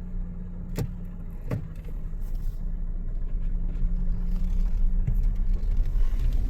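Car engine running, heard from inside the cabin as a steady low hum, with two sharp clicks about a second in; from about two seconds in the low rumble grows steadily louder.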